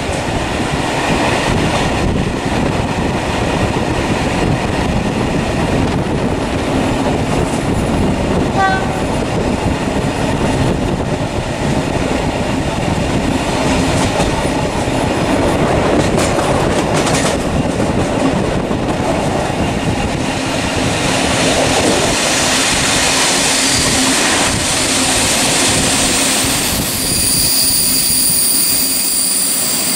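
Continuous loud rumbling, rattling noise of a moving vehicle, with high steady squealing tones near the end.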